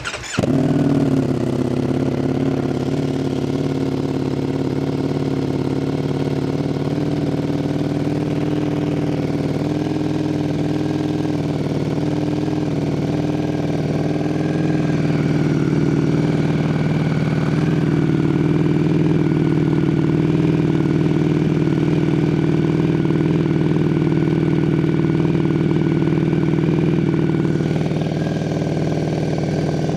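Ducati Streetfighter V4S's 1103 cc V4 engine, fitted with an Arrow titanium exhaust, cold-started after standing unused for a couple of weeks. It catches about half a second in and settles into a steady, loud idle.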